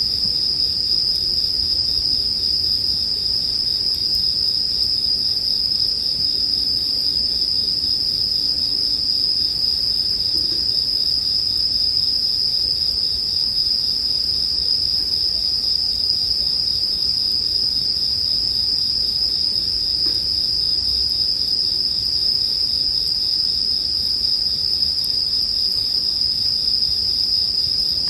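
Chorus of bell crickets (suzumushi) singing, a steady high-pitched trill that never breaks.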